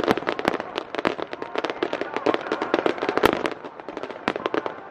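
Aerial fireworks shells bursting in rapid succession, a dense run of sharp pops and bangs with the loudest report about three seconds in.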